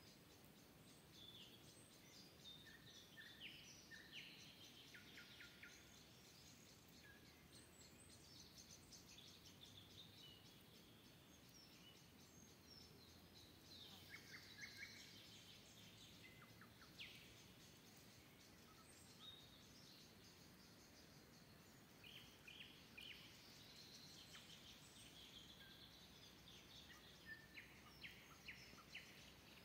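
Several songbirds singing in a forest, a mix of chirps, quick trills and warbling phrases overlapping one another, quiet over a faint steady background hiss.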